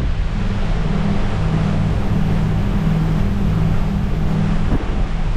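Motorboat engine running steadily underway, a low drone, with wind and water noise over it.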